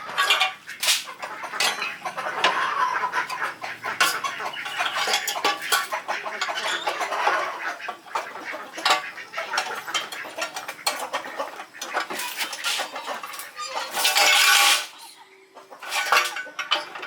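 Chickens clucking amid many sharp clinks and knocks, with one louder stretch near the end.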